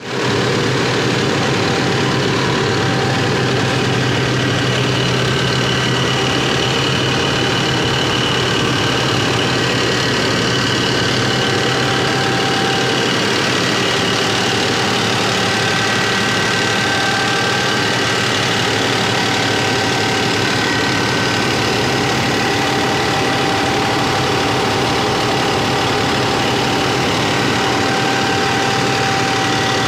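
Massey Ferguson 9500 tractor's diesel engine running steadily under load, driving a rice mill; the engine and machinery make a loud, even din with steady whining tones over it.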